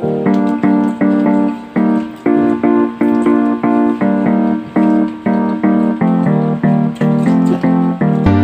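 Background music: an electric piano or keyboard playing bright repeated chords, about two a second, in a steady beat.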